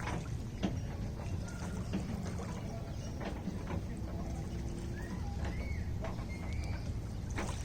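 Lake water lapping, with many small sharp splashes and drips over a low steady wash. A few short high chirps come in after about five seconds.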